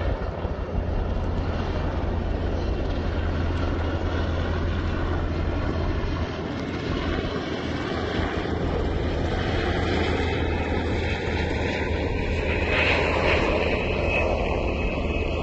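Firefighting aircraft engine droning steadily overhead, with a faint tone that slowly rises in pitch in the second half.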